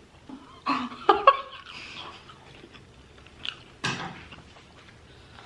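A person chewing and eating with mouth sounds. There is a louder cluster of sounds about a second in and a sharp smack or click near four seconds.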